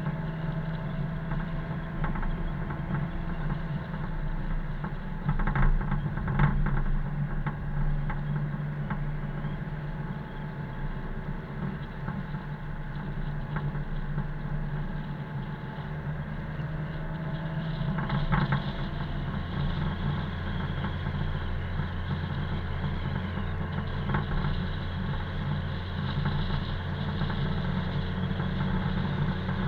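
Car engine running steadily while driving, with road noise. The engine note shifts about two-thirds of the way through, and there are a few short knocks around 6 s and 18 s.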